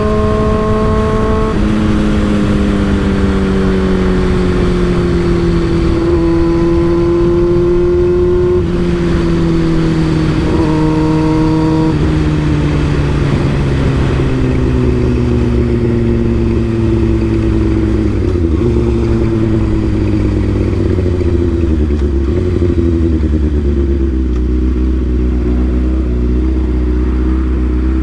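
Motorcycle with an M4 aftermarket exhaust under way. The exhaust note climbs and drops in steps through several gear changes in the first half, then slowly winds lower as the bike slows. Wind noise rumbles underneath.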